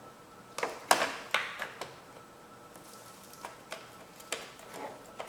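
Irregular clicks and light knocks of hand tools against the plastic engine cover and its screws as the cover is refitted, the loudest about a second in, then a few scattered taps.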